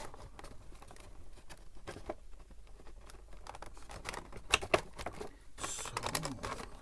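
Light taps and clicks of a Funko Pop cardboard box and its plastic insert being handled and fitted back together, with two sharper clicks a little after four and a half seconds and a brief rustle near the end.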